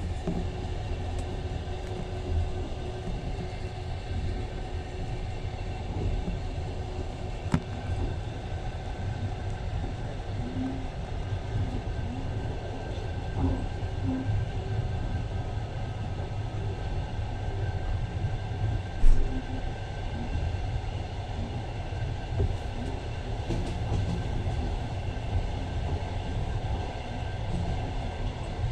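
Train running along the track, heard from inside the carriage: a steady low rumble with an occasional sharp click.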